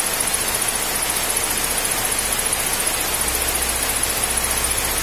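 Hyundai car engine idling with the bonnet open, a steady hissing run with a faint high whine and a low hum that strengthens about three seconds in. It is run to purge trapped air from the cooling system through the radiator filler neck.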